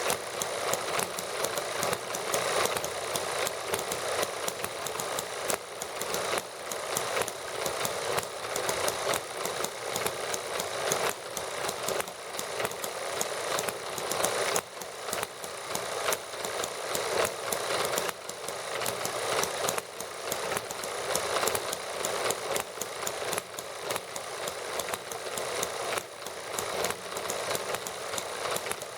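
Several small model gasoline engines running together at a steady idle: a fast, continuous stream of light firing knocks and mechanical clatter.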